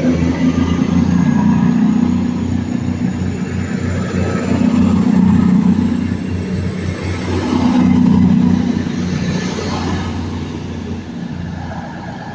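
Class 221 Super Voyager diesel-electric multiple unit pulling away, its underfloor diesel engines running under power with a low drone. The drone swells twice and then fades as the train draws off.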